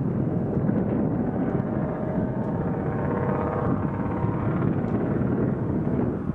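Jet airliner engines making a steady rush, with a faint whine that comes through in the middle.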